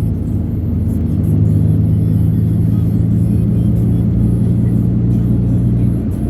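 A road vehicle running steadily, heard from on board, with a low steady drone whose pitch shifts abruptly near the end.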